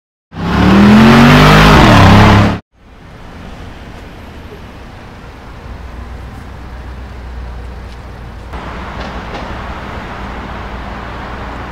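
Brabus G700 4x4² twin-turbo V8 revving hard in a loud burst of about two seconds, its pitch sweeping up and down, then cutting off suddenly. After that the engine rumbles low and steady as the car moves slowly, a little louder from about eight and a half seconds in.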